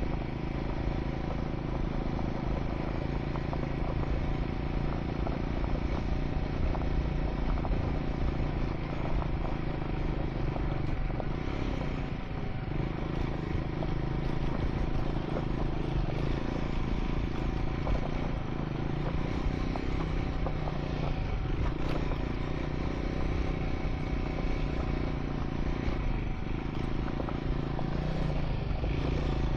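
Triumph Scrambler 400 X single-cylinder engine running steadily while riding a gravel track, its engine speed shifting briefly a few times.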